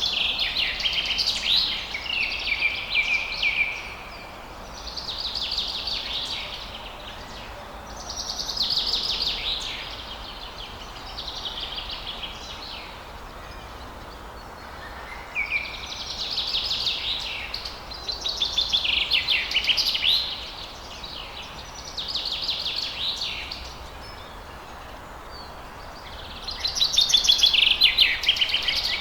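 Songbird singing: about eight rapid, high warbling phrases of two to three seconds each, separated by short pauses, over a faint steady background hiss.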